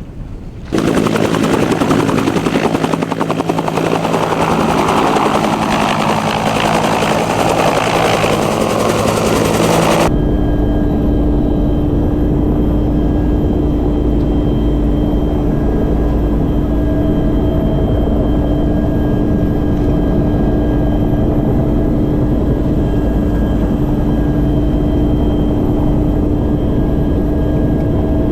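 Huey helicopter running loud, its rotor and turbine noise filling the sound. About ten seconds in the sound changes abruptly to a steadier, deeper drone with a constant hum.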